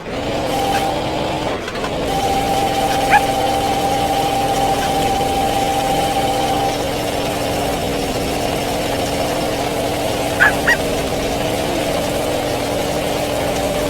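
A motor running steadily at an even pitch, starting abruptly. Short high chirps come about three seconds in and twice more about ten and a half seconds in.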